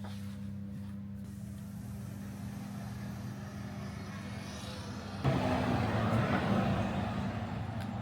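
Motor vehicle engine running with a steady low hum; about five seconds in a louder rushing noise sets in suddenly and slowly eases.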